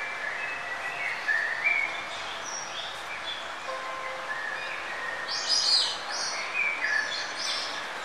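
Garlic and onion sizzling in oil in a frying pan, a steady hiss, with birds chirping in short bursts over it, loudest about five and a half seconds in.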